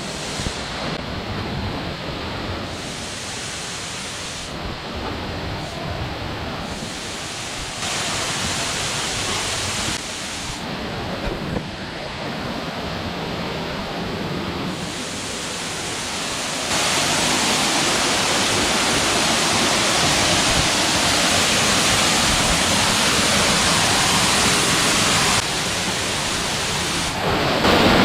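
Rushing water of a waterfall: a steady hiss of falling water that gets abruptly louder a few times, most of all about two-thirds of the way through.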